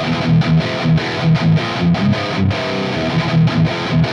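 Heavily distorted electric guitar playing a riff of short, repeated chugging chords, several a second, through an EarthQuaker Devices Plumes overdrive in its symmetrical clipping mode with the gain turned up, boosting an EVH 5150-style high-gain amp. The pedal adds a little graininess to the tone.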